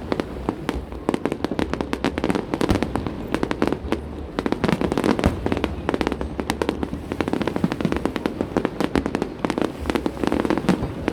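Fireworks display: a dense, continuous barrage of bangs and crackling reports, many each second, with no let-up.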